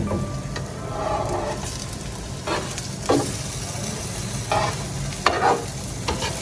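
Paratha frying in oil on a flat metal griddle, with a steady sizzle. A metal spatula scrapes and knocks against the pan several times in the second half as the paratha is lifted and turned.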